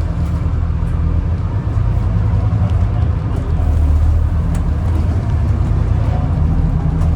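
Scania N250UD double-decker bus's diesel engine running steadily while under way, heard from inside the passenger cabin, with a few light rattles.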